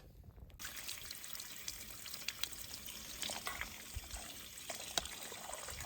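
Water moving with a steady hiss and scattered small splashes and clicks, starting abruptly about half a second in.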